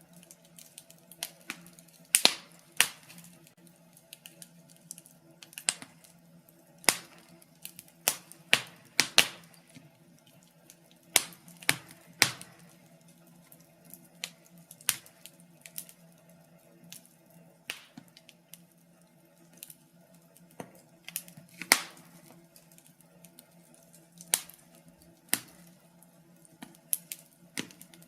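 Wood fire in a fireplace crackling, with irregular sharp pops and snaps, about one or two a second and unevenly spaced, over a faint steady low hum.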